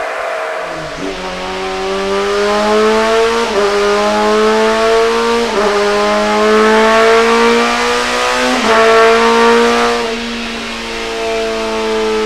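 Toyota Land Cruiser 80's 4.2-litre turbocharged six-cylinder diesel accelerating under load. Its pitch climbs steadily and breaks off briefly with a small drop four times as it changes gear.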